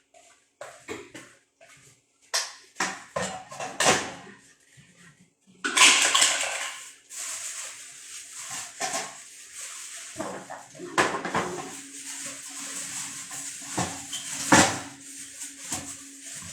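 Plastic vacuum cleaner parts being handled, knocking and clattering. From about six seconds in, water runs steadily as the parts are washed, with further sharp knocks.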